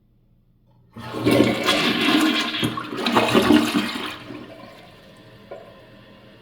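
Toilet flushing: a sudden rush of water starts about a second in, runs for about three seconds, then dies down into a quieter steady hiss of running water, with a small knock near the end.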